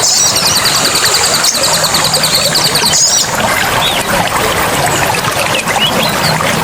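Water pouring and splashing steadily, with short bird chirps scattered over it. A fast, evenly repeating high trill runs alongside and stops about three seconds in.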